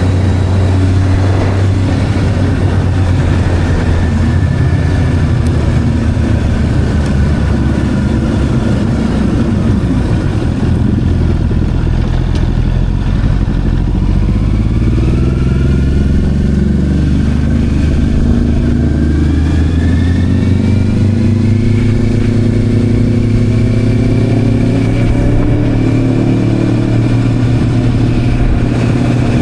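Motorcycle engine running under way: its pitch falls as it slows about a third of the way in, then rises again as it accelerates.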